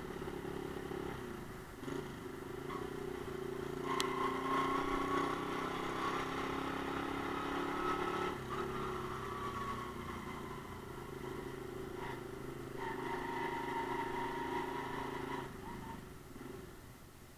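Romet Ogar Caffe 125's single-cylinder 125 cc four-stroke engine running under way at town speed, its pitch rising and falling as the rider speeds up and eases off. A sharp click comes about four seconds in, and the engine note drops away near the end.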